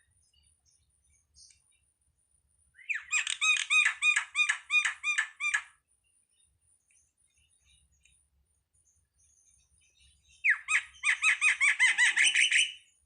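A jalak (starling) calling in two bursts of rapid, repeated harsh notes, each burst lasting about three seconds, with a pause between them; the second burst opens with a falling sweep.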